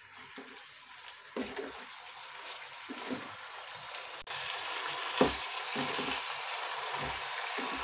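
Macaroni and tomato masala sizzling in a non-stick frying pan as a spatula stirs it, with a few soft knocks of the spatula against the pan. The sizzle gets louder about four seconds in.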